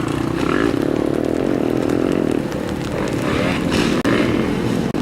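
Motocross motorcycle engines revving, their pitch rising and falling as the bikes ride.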